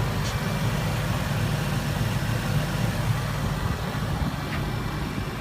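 A vehicle engine idling steadily with a low, even hum, with a couple of faint ticks.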